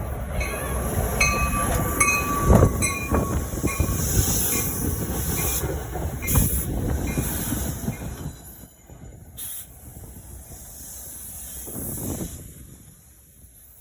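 Passenger train passing on the rails, rumbling with high wheel squeal, then fading away after about eight seconds.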